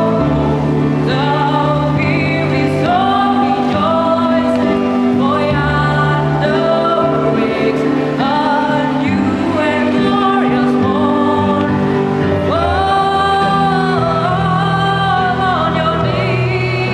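Children's choir singing a Christmas carol in long held phrases over a steady low accompaniment.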